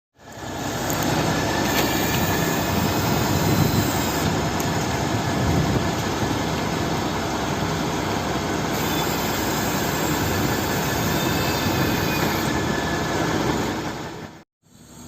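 Heavy truck running, a loud steady rushing engine and machinery noise that cuts off abruptly near the end.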